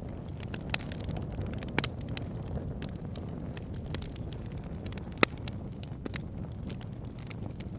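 Wood fire burning in a fireplace: a steady low rumble of the flames with frequent sharp crackles and pops, the loudest pop about five seconds in.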